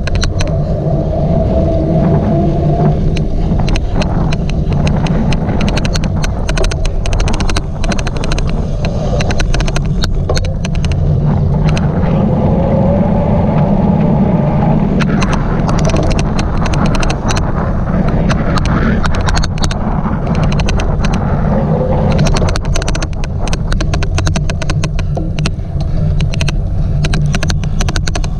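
A cyclocross bike ridden at race pace: steady low rumble of wind and tyres on the course, with many irregular sharp clicks throughout.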